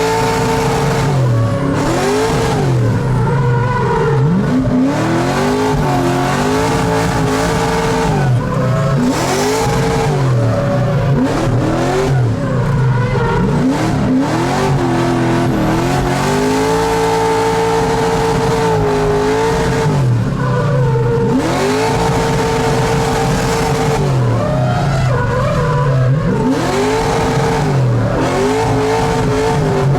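LS3 V8-swapped Mazda Miata's engine revving hard while drifting, pitch repeatedly climbing, holding near the top and dropping as the throttle is worked. Tyres squeal and skid beneath it.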